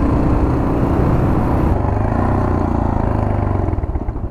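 Yamaha XT 600's single-cylinder four-stroke engine running as the motorcycle is ridden, its note shifting slightly up and down.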